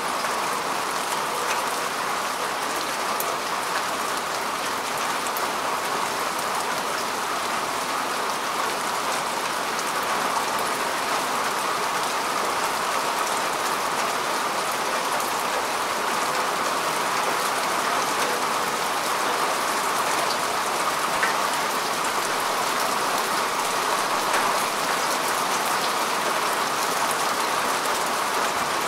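Steady rain falling on grass and earth, an even hiss with scattered faint drop ticks.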